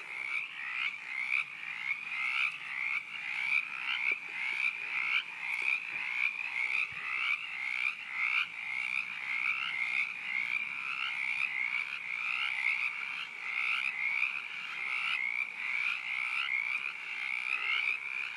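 Frog croaking over and over, really loud: a high call repeated about once or twice a second without a break.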